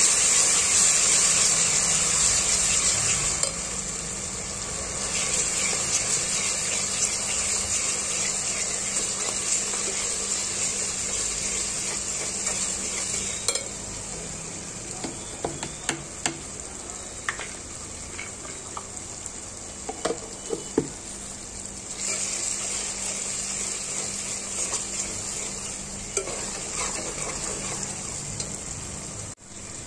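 Chopped onions and ginger-garlic paste sizzling in hot oil in a pot, loudest for the first few seconds after the paste goes in, then easing to a steadier fry. A steel spoon stirs through it, scraping and clicking now and then against the pot.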